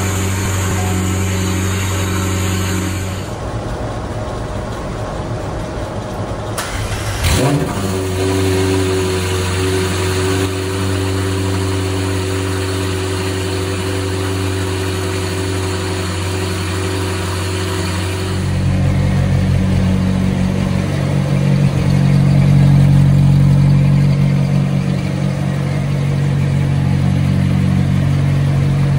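McLaren 720S twin-turbo V8 running on its first startup after a turbo manifold repair, with a brief rising flare about seven seconds in, then a steady idle that changes tone about eighteen seconds in. There is no loud exhaust-leak ticking.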